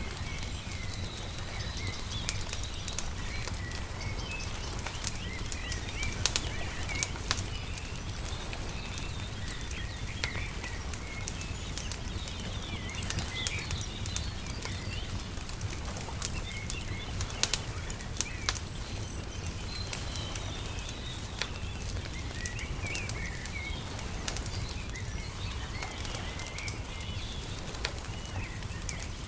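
Wood fire crackling with scattered sharp pops, over small birds chirping and a steady low rumble.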